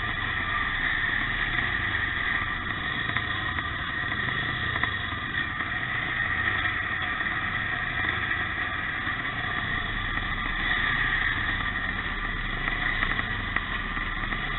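Pre-1965 motocross motorcycles racing, their engines running continuously without a break.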